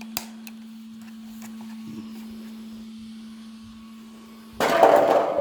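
Cooling fans of an Arrma Kraton 4S RC truck humming steadily, with a small click just after the start. About four and a half seconds in, a short loud burst as the truck's electric motor is given throttle for the first time after being powered up.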